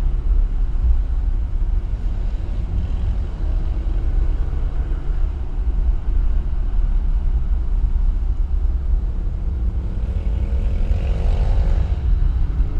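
Car driving along, a steady low rumble of engine and road noise, with an engine note rising for a couple of seconds near the end.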